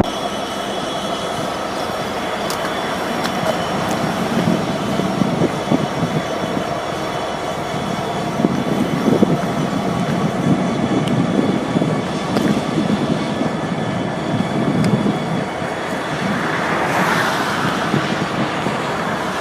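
A train rolling past, steel wheels on the rails giving a steady rumble with irregular thuds and a thin, steady squeal above it.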